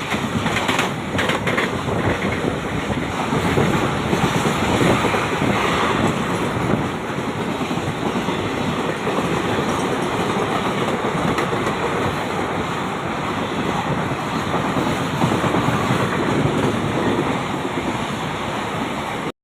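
Paschim Superfast Express running on the track: a loud, steady rumble and rattle of coaches and wheels, with a few sharp clicks about a second in. It stops suddenly at the end.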